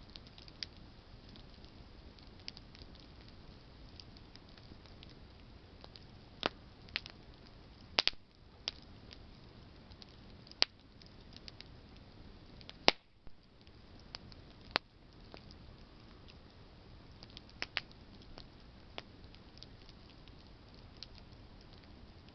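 Campfire of burning branches crackling: irregular sharp pops and snaps over a low steady hiss, with a few much louder snaps clustered in the middle.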